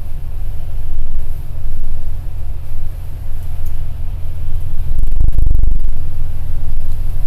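Steady low rumble of a highway bus driving at speed, heard from inside the coach, with an even hiss of heavy rain and road spray over it. The rumble grows louder about five seconds in.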